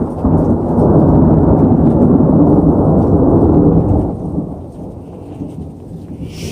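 Thunder rumbling loudly right after a lightning strike, deep and strongest for about four seconds, then dying down to a lower rumble.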